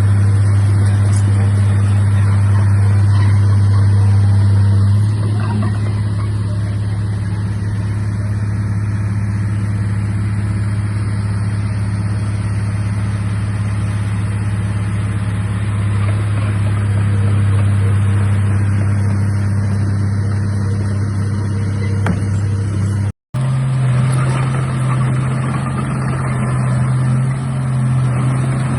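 Komatsu D31A bulldozer's diesel engine running steadily at an even, low pitch. About 23 seconds in the sound cuts out for an instant and comes back with the engine turning a little faster.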